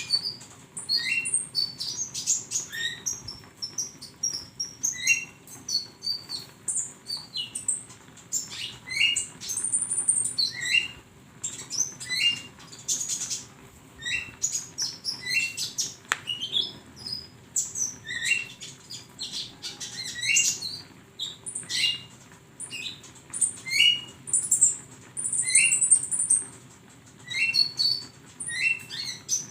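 Konin (kolibri ninja) sunbird singing a busy run of high, thin chirps and twitters, with a short rising note repeated about every second or two, over a faint steady hum.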